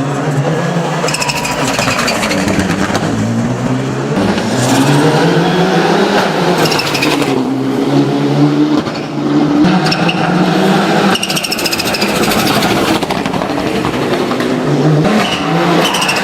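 Race-built Mitsubishi Lancer Evolution VI's turbocharged four-cylinder engine driven hard, its pitch repeatedly rising and dropping with short lifts between pulls for gear changes and corners.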